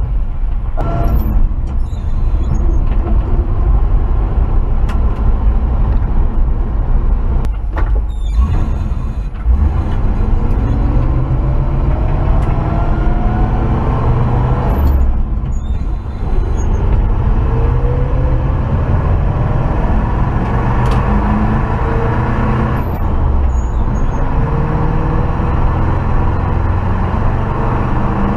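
1968 Chevrolet pickup truck's engine running under way, pulling up through the gears: a steady low rumble with a rising engine tone that drops back briefly a few times as it shifts.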